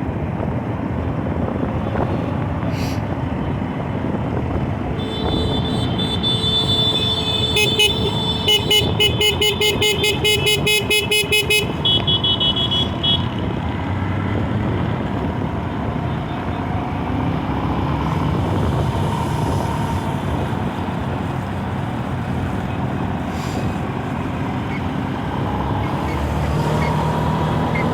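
A vehicle horn sounds over steady traffic noise. It is held for a few seconds, then honked in quick short blasts about three times a second, and gives one more short toot after a pause.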